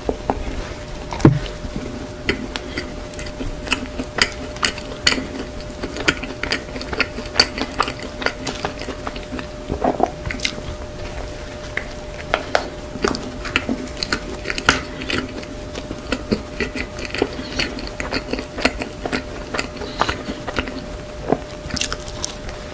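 Close-miked chewing of soft cream-filled bread: steady wet mouth clicks and smacks, several a second, with a louder bite about a second in. A faint steady hum sits underneath.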